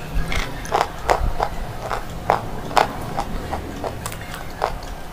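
A person biting and chewing a crumbly grey slate bar: a run of about a dozen sharp, irregular crunches. The loudest come about a second in and near three seconds.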